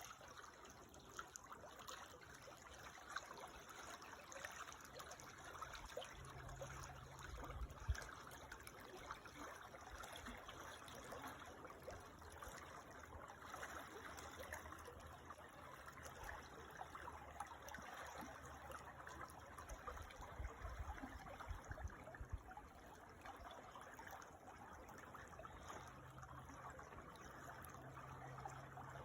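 Small creek trickling and babbling steadily, faint. Low rumbles come and go under it, with a brief low thump about eight seconds in.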